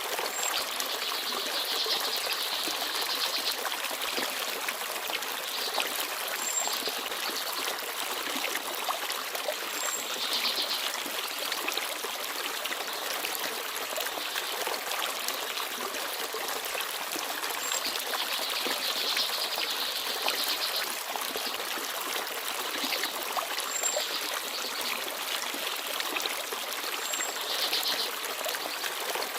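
Shallow forest stream babbling and trickling steadily, with small birds giving brief high chirps now and then.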